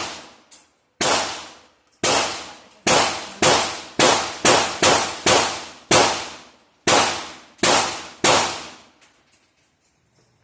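A string of about a dozen single gunshots fired in fairly quick, uneven succession, each dying away over about half a second. They stop a little before the end, followed by a few faint clicks.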